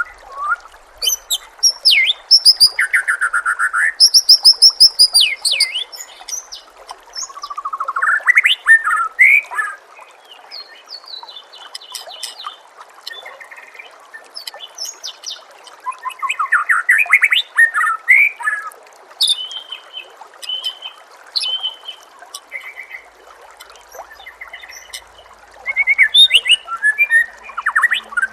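White-rumped shama (murai batu) singing a varied song of loud whistles, rapid trills and rising sweeping phrases, over a steady trickle of running water.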